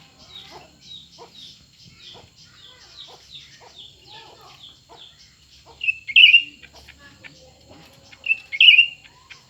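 Cucak ranting birds calling: a quick run of short, high, downward chirps, about three a second, then two loud harsh calls, one about six seconds in and another two and a half seconds later.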